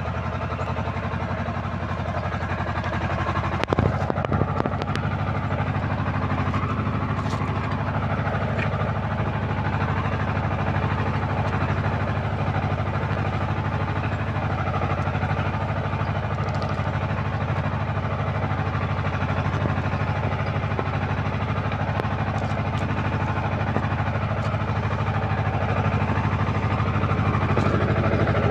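Tractor engine running steadily while pulling a plow, with a few sharp knocks about four seconds in and a slight rise in level near the end.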